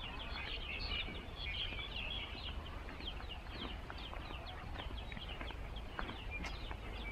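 Small birds chirping in a chorus: many short, high, falling chirps overlapping throughout, over a low steady rumble.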